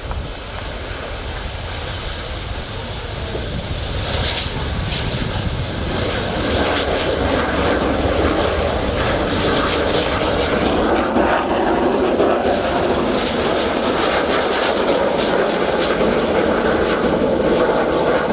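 Jet engine noise from the Red Arrows' BAE Hawk T1 jets, with their Rolls-Royce Turbomeca Adour turbofans, on the takeoff run. It builds over the first six seconds or so and then holds steady and loud.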